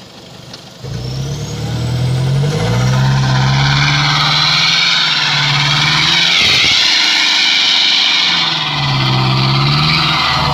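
Pickup truck engine revving hard under load on a steep, slippery climb. It rises sharply about a second in, its pitch swinging up and down, easing off around the middle and climbing again near the end, with a loud rushing hiss over it.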